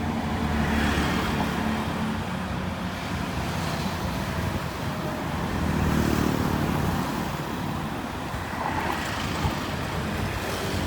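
Heavy earthmoving machine's diesel engine running, with the engine working harder twice: about a second in and again around six seconds in.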